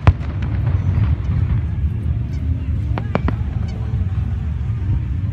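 Fireworks shells bursting: one bang at the very start and two more about three seconds in, over a steady low rumble.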